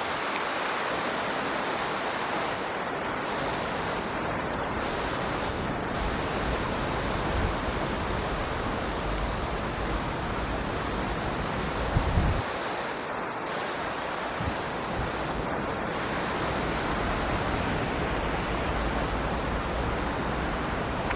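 Heavy rain falling, a steady even hiss. About twelve seconds in, a brief low rumble of wind buffets the microphone.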